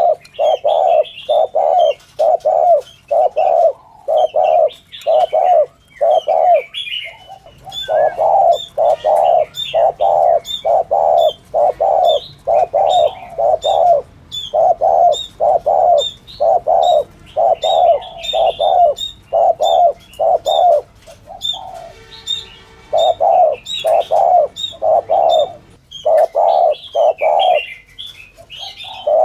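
Spotted dove cooing in the fast, insistent 'thúc gù' style used to lure doves: runs of low coos at about two a second, broken by short pauses. Small birds chirp higher up in the background.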